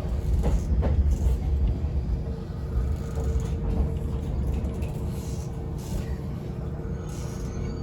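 Yoro Railway electric railcar heard from just behind the driver's cab: a low rumble that slowly dies down, with a faint steady hum coming in about two seconds in.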